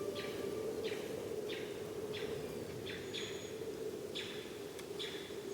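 A bird calling repeatedly in short falling notes, one or two a second, over a steady low background hum.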